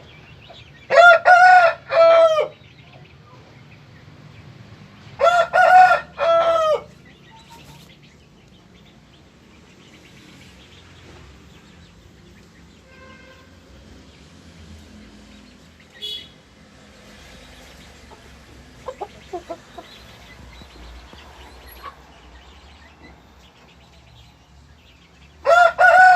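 Aseel rooster crowing three times: about a second in, about five seconds in, and again at the very end. Each crow is a loud call broken into three short parts. Softer clucking comes in between.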